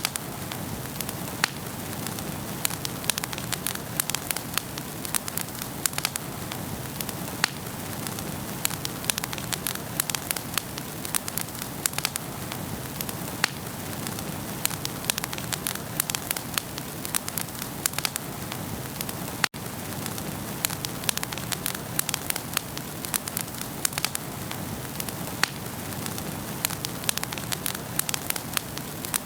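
Wood fire burning in a fireplace, crackling and popping: many sharp snaps over a steady hiss of flame. The sound cuts out for a split second about two-thirds of the way through.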